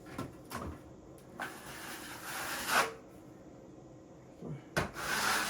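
Two long scraping strokes of a wide plastering trowel dragged across a wall, the first about a second and a half in and the second near the end, with a couple of light knocks before them.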